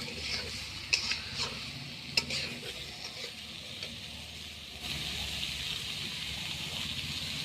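Food frying in hot oil: a steady sizzling hiss with a few sharp clicks in the first couple of seconds, growing louder about five seconds in.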